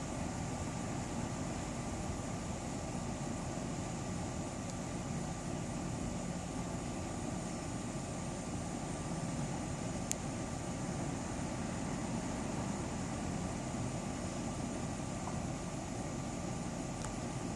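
Steady low mechanical hum with faint steady high-pitched tones above it, unchanging throughout; one sharp click about ten seconds in.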